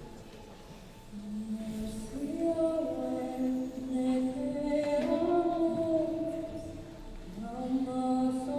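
Slow vocal music, likely a choir, singing long held notes in several parts that move together. It enters about a second in after a quiet start, and the notes fade briefly near the end before the voices come back.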